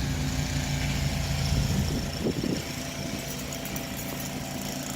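An engine-like machine hum running steadily, dropping in level about halfway through, with a brief low sliding sound just before the drop.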